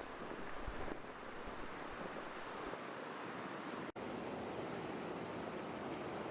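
Gurara Falls waterfall: steady rushing water. There is a brief dropout about four seconds in, after which the rush resumes evenly.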